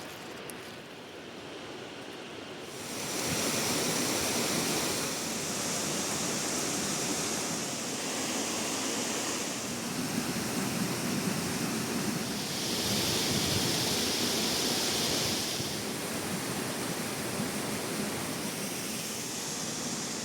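Steady rushing of flowing water, getting louder about three seconds in.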